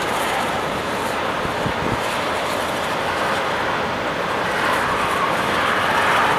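Heavy rain from a thunderstorm pouring steadily, swelling slightly louder near the end.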